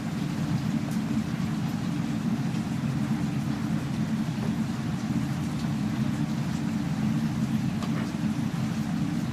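A steady low mechanical hum, unchanging throughout, with faint scattered ticks over it.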